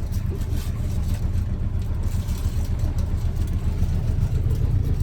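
A small fishing boat's engine running steadily at low revs, a continuous low-pitched drone heard from on board.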